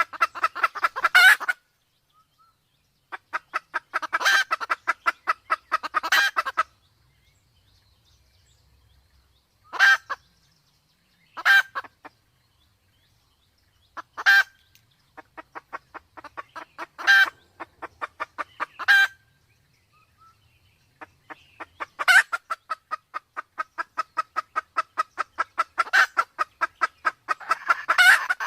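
Red junglefowl clucking in rapid trains of short notes, several call bouts of a second or a few seconds each with pauses between, the longest near the end. These are the calls of a hen in heat, mixed with a cock.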